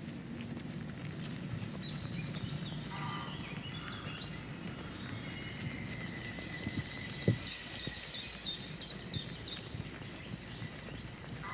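Footsteps on a woodland trail, with a few soft knocks (the strongest about seven seconds in), and birds calling in short high chirps and falling notes through the middle.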